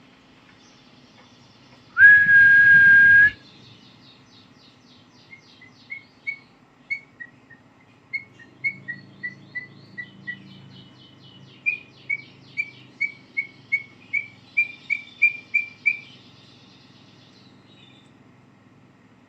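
One loud, steady whistled note lasting about a second, then a white-rumped shama giving a long run of short, quick chirps, two or three a second, with fainter high twittering behind.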